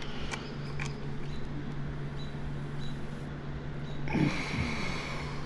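A few light metallic clicks from handling a motorcycle chain's master link, over a steady low hum. About four seconds in comes a short grunt-like voice sound.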